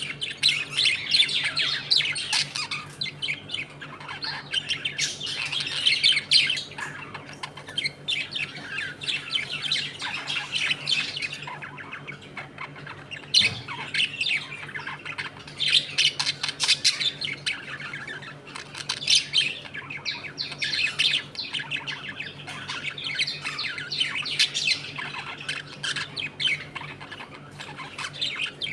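A colony of budgerigars chattering and squawking, a dense, overlapping flock noise that swells and eases in waves.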